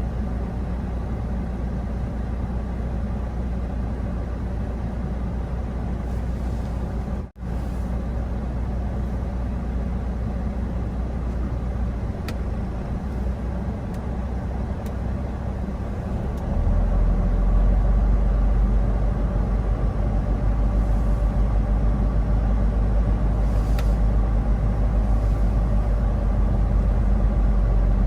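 Steady low rumble of a truck's engine and road noise while driving, with a brief dropout about seven seconds in and the deep rumble growing louder about halfway through.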